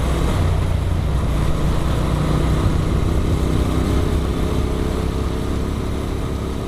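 Motorcycle engine running at a steady pace under wind noise, as the bike is ridden along. It eases off slightly toward the end.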